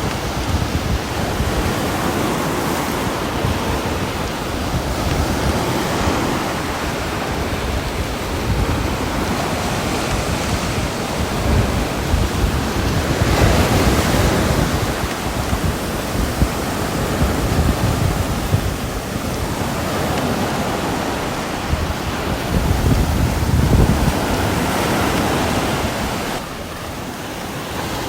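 Rain falling, a dense even hiss with a low rumble that swells and eases every few seconds.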